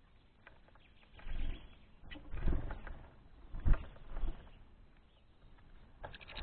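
Birds: a few short, irregular bird sounds over a low background, the loudest about two and a half and about three and a half seconds in.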